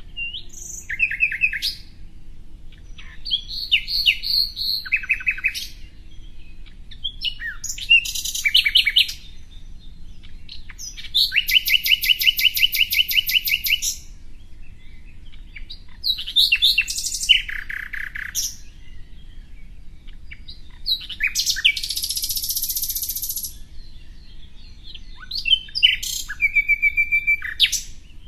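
Songbird singing in a string of varied phrases a few seconds apart: quick runs of high chirps and trills, one long rapid trill near the middle and a buzzy, scratchy phrase later on.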